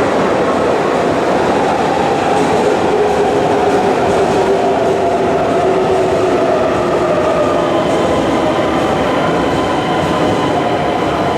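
Electric passenger train moving through the station: a steady loud rumble of wheels on track, with faint drawn-out whining tones from its traction motors drifting slowly in pitch.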